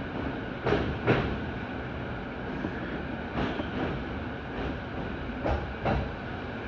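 Interior running noise of a commuter train moving slowly, with a steady rumble and wheels clicking over rail joints in spaced pairs, a few times.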